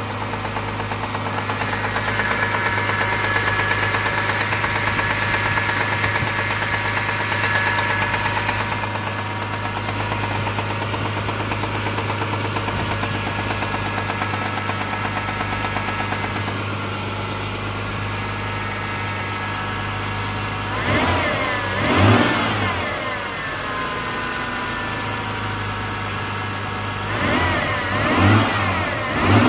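Mitsubishi 6G72 V6 running with a tapping knock after a cold start, blipped up in revs twice in the later part. The knock lasts only a minute or two when cold, which the owner suspects is the hydraulic lifters.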